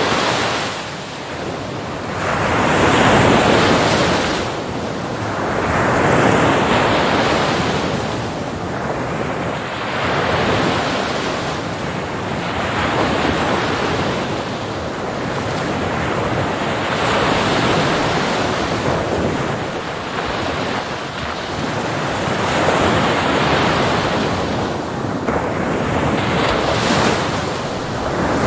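Ocean surf: waves breaking on a beach one after another, each swell of rushing water rising and falling every few seconds, with some wind noise on the microphone.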